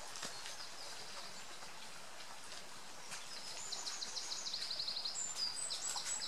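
Outdoor ambience with a faint steady hiss. About three and a half seconds in, a songbird sings a quick run of high notes, about eight a second and slightly falling, then a few higher whistles near the end.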